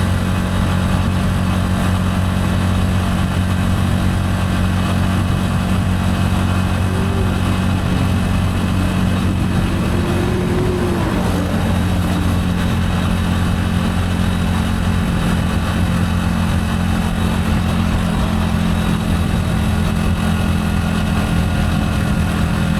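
Gilera AC4 motorcycle engine running steadily at an unchanging pitch.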